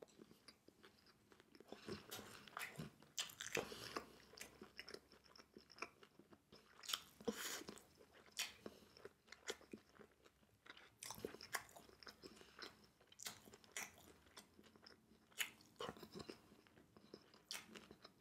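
Chewing a mouthful of sweet and sour pork and rice: quiet, irregular crunches, a few a second.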